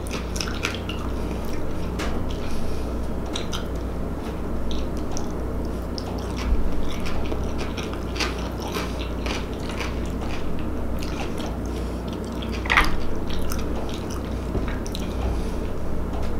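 Close-miked chewing and mouth sounds of a person eating coleslaw and macaroni salad, with many small wet clicks and smacks over a steady low hum.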